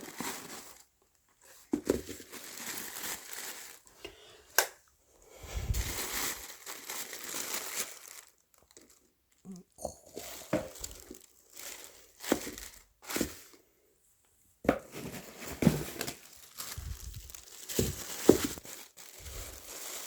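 Paper crinkling and rustling in irregular bursts, the packing paper of a sneaker box being handled, with a few sharp clicks between them.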